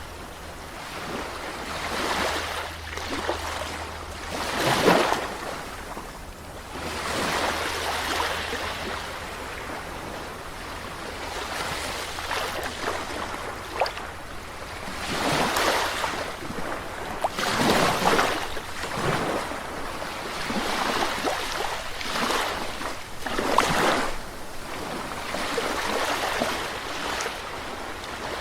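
Sea waves breaking and washing up the shore, rising and falling in surges every few seconds; the loudest surges come about five seconds in and near the eighteen- and twenty-four-second marks.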